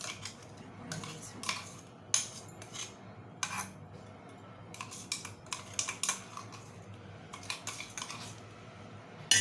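A metal spoon clinking and scraping against a dish in a string of irregular knocks, some in quick clusters, as a ground paste is scooped and poured over chicken pieces.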